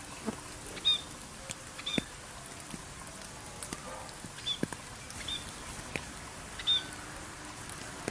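Steady rain with individual drops clicking, and a small bird giving short high chirps about five times.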